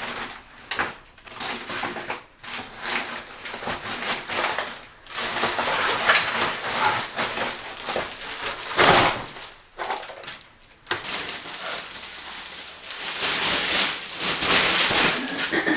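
Rubbish being handled and cleared: irregular crumpling and rustling with scattered knocks and clatter, in bursts with short pauses between.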